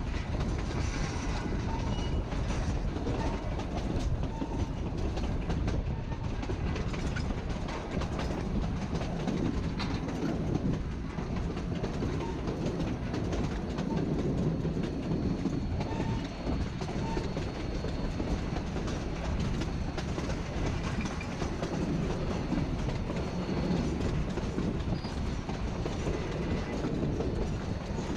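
Narrow-gauge passenger train rolling along the track, heard from aboard: a steady rumble with the wheels clicking over the rail joints.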